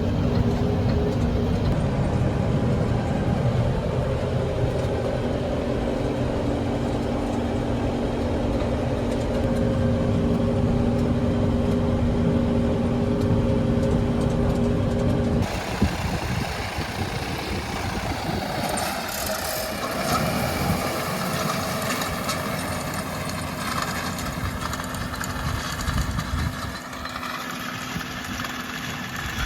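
New Holland T5.90 tractor engine running with a steady drone. About halfway through the sound changes abruptly: quieter, with a wavering higher whine over the engine.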